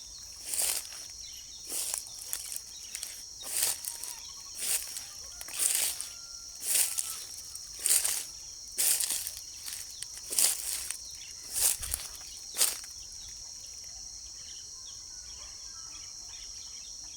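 Insects chirring steadily outdoors, with a run of about a dozen short rustling swishes, roughly one a second, that stop about two-thirds of the way through.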